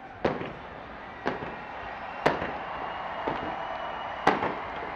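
Aerial fireworks bursting: five sharp bangs about a second apart over a steady background hiss, the loudest near the middle and near the end.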